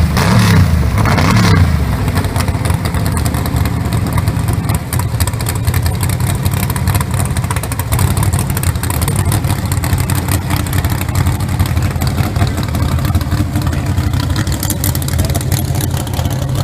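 A 1,200 hp Chevy's engine revved once near the start, then idling with a loud, steady rumble.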